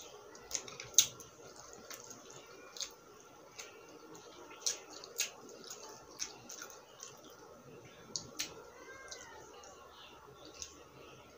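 Close-miked eating sounds: wet chewing with sharp mouth and lip-smacking clicks at irregular intervals, the loudest about a second in, over a faint steady hum.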